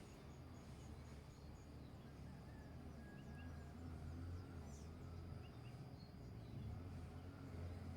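Faint low rumble of background noise with a few soft, short bird chirps, and a rapid high ticking that stops about a second and a half in.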